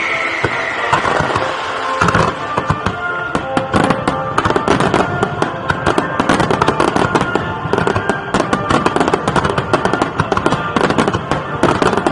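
Fireworks finale: a falling whistling tone fades out in the first second. From about two seconds in, many shells crackle and pop together in a dense, continuous barrage.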